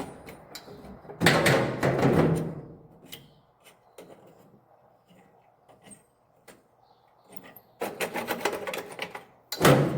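Metal clinks and knocks of hand tools working on a tractor's exhaust pipe clamp, with two longer, louder stretches of rattling and scraping, one about a second in and one near the end.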